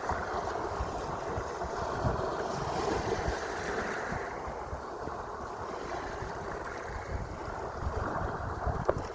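Sea waves washing in a steady hiss that swells and eases, with wind buffeting the microphone in low rumbling gusts.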